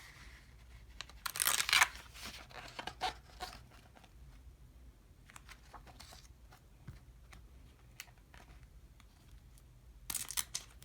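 Pages of an album photo book that are stuck together being peeled apart, with a loud papery rip about a second and a half in and another near the end, and small paper clicks and rustles in between.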